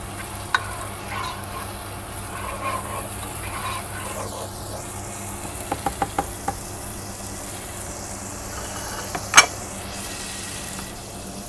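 An onion, garlic and tomato-puree base sizzling gently in a pot as a spatula stirs and scrapes through it, over a steady low hum. A few light taps come just past the middle, and a single sharp knock near the end.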